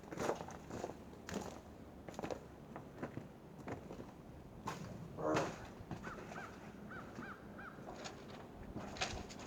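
Faint bird calls outdoors: one harsh call about five seconds in, then a quick run of five short high chirps, over scattered light clicks and knocks.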